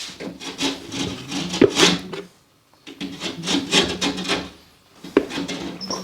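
Plasterboard edge being trimmed by hand with quick back-and-forth rasping strokes, about three a second, stopping briefly twice.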